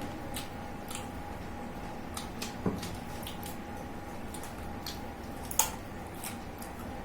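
Eating sounds of tandoori chicken being eaten by hand: scattered wet mouth smacks and chewing clicks, with a sharper click nearly three seconds in and a louder one later on.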